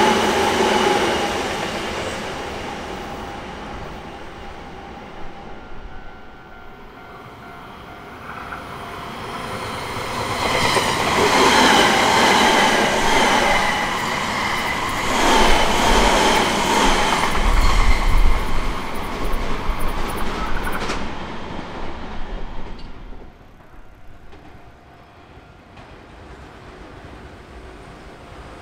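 Two electric commuter trains pass close by. The first runs away and fades over the first several seconds. The second approaches from about nine seconds in and goes by loud, with steady tones over the rumble and rapid clicks of wheels over rail joints, then fades away a little past twenty seconds in.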